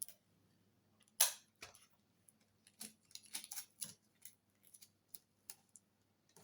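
Scattered light clicks and rustles of the RC airplane's wing being handled, with the loudest click about a second in and a quick run of small clicks near the middle.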